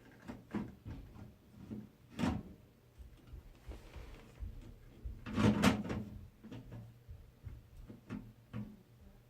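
Knocks, clicks and rattles of PC case parts and a motherboard being handled and fitted, with a sharp knock about two seconds in and the loudest clatter about five and a half seconds in.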